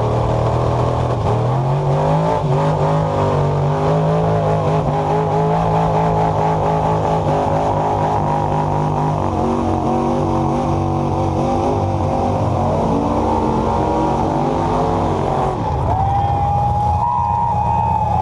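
Pulling truck's engine at full throttle, held at high revs for most of the stretch, then dropping off about 15 seconds in. A steady high whine comes in near the end.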